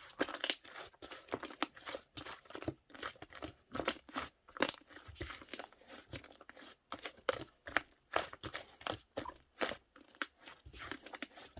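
Slime being squished and stretched by hand, giving a dense, irregular run of small crackles and clicking pops, several a second.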